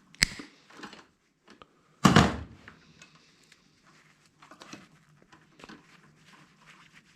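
Handling noise from scrap being worked on a bench: a sharp click, then about two seconds in a loud clunk as something is set down or dropped, followed by faint taps and rustling.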